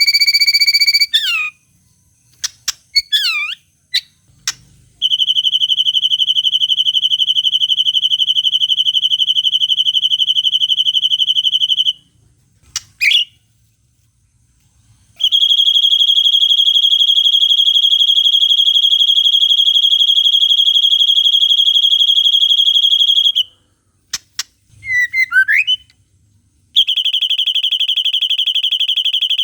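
White-rumped shama singing its 'cililin panjang' imitation: long, steady, buzzing trills held for several seconds each, three times over, with short quick sweeping whistles in the gaps between them.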